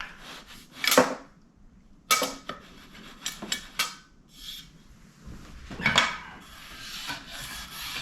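A few sharp knocks and clatters of the tools and bass being handled, then sandpaper starting to rub back and forth over the thin veneer fingerboard of a fretless Fender Precision Bass during resurfacing, steady over the last second or so.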